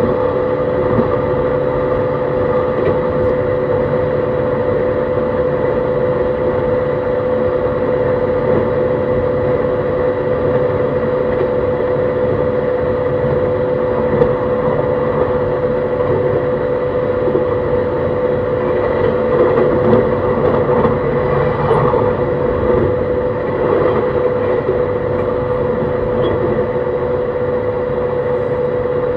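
Onboard running sound of a JR East E131 series 600-subseries electric multiple unit travelling at a steady speed: a continuous rumble of wheels on rail under several steady held tones, swelling slightly a little past the middle.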